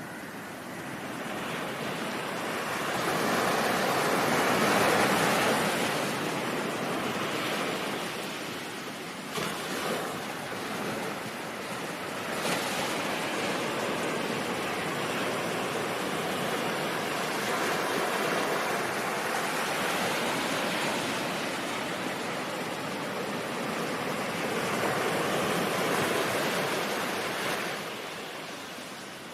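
Ocean surf: a steady wash of breaking waves that swells over the first few seconds, rises and falls slowly, and eases near the end.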